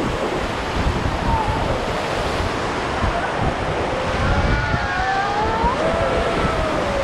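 Rushing river water, with wind buffeting the microphone. Faint distant voices call out from about four seconds in.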